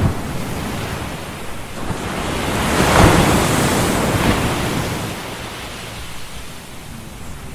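Ocean surf: a steady hiss of waves that swells to a peak about three seconds in, then slowly ebbs.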